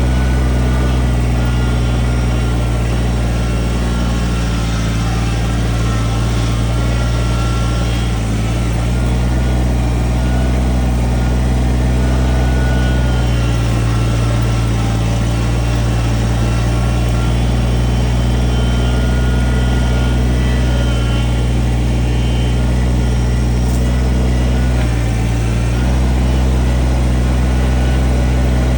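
Diesel engine of a Kubota earthmoving machine running steadily. Its low engine note shifts a few times as the load changes, with a brief dip about 25 seconds in.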